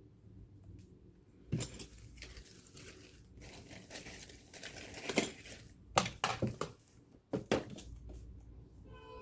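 Hands wiping down a metal sewing machine: uneven rubbing and crinkling with several sharp clicks and knocks of the machine being handled, busiest around the middle.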